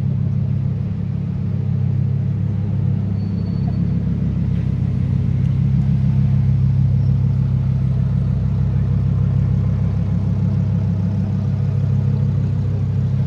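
Lamborghini Huracán Performante's naturally aspirated V10 running at low revs, a steady deep rumble with no revving.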